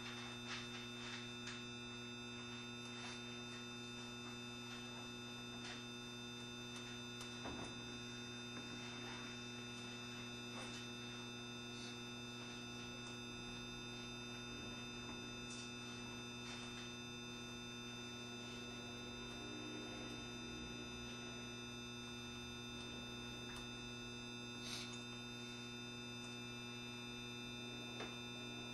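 Steady electrical hum and whine inside a JR Shikoku 7200 series electric train, several fixed tones holding level throughout, with a few faint scattered clicks.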